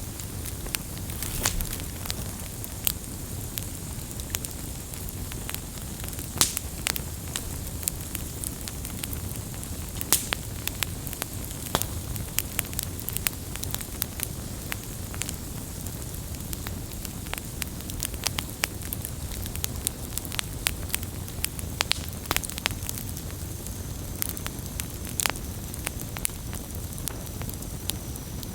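Wood fire burning with a low steady rumble and hiss, broken by frequent irregular sharp pops and crackles of burning wood.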